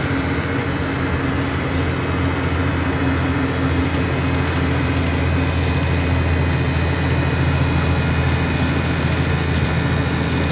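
Ford Cargo 2628 dump truck's diesel engine running steadily under way, heard from inside the cab with road noise; it gets slightly louder a few seconds in.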